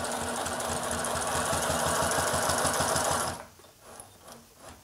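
HDSew PortaWalker industrial walking foot sewing machine running at speed, stitching through four layers of leather with a fast, even stitch rhythm, then stopping abruptly about three and a half seconds in, followed by a few light clicks.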